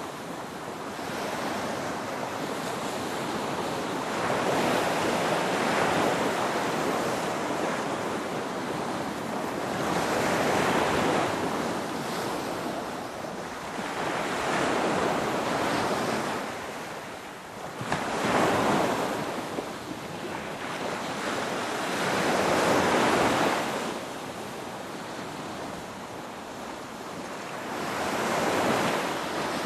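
Ocean waves breaking on the shore, a steady wash of surf that swells and eases with each wave, roughly every five seconds.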